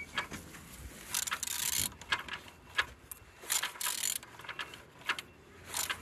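A used car engine being turned over by hand with a ratchet wrench: bursts of ratchet clicking and rasping in several strokes, the engine turning freely, a sign it is not seized.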